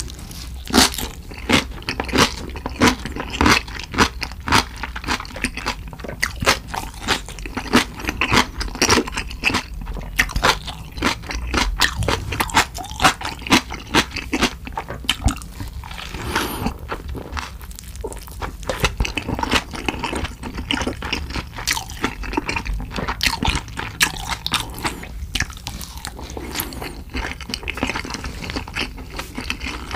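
Close-miked eating: many sharp crunches and wet chewing as aged cabbage kimchi is bitten and chewed, then a giant dumpling.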